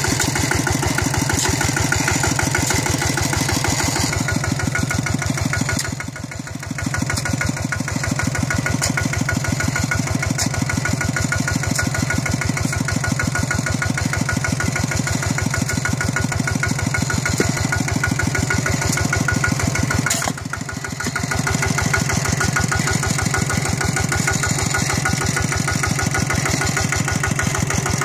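Single-cylinder diesel engine of a walk-behind tractor running steadily with a rapid, even beat. It eases off briefly twice and then picks up again.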